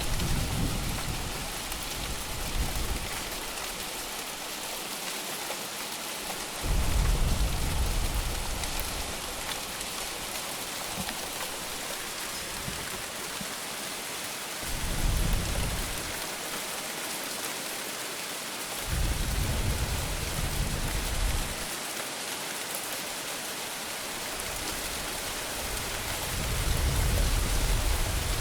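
Steady heavy rain hissing, with low rumbles of thunder rising and fading about five times, each lasting one to three seconds.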